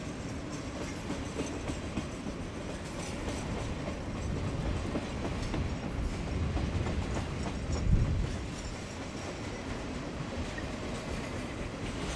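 Freight train rolling past, its wheels clacking over rail joints over a steady rumble, with one heavier thump about eight seconds in.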